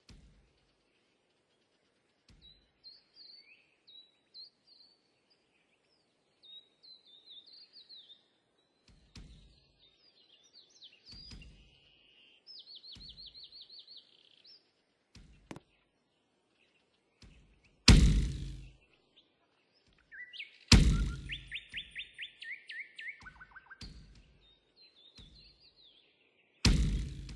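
Small birds chirping and trilling on and off, with scattered knocks and thumps; three of the knocks, in the second half, are much louder than the rest.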